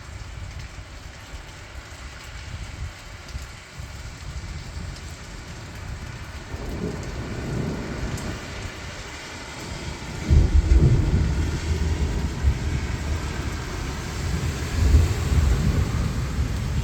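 Steady rain with thunder. The thunder starts rumbling about six seconds in, then a loud clap breaks about ten seconds in and rolls on to the end.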